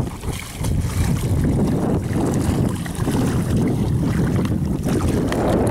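Wind buffeting the microphone on open water, a heavy low rumble that eases for a moment now and then.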